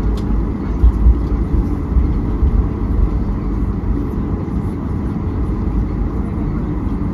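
Low, steady rumble inside a Southwest Boeing 737's cabin on the ground after landing, with a few louder low bumps about a second in.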